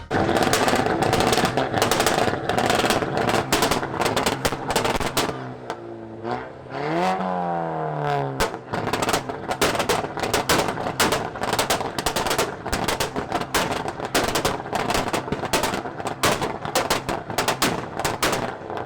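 Performance car exhaust popping and crackling in rapid strings of bangs. A short engine rev rises and falls about a third of the way through.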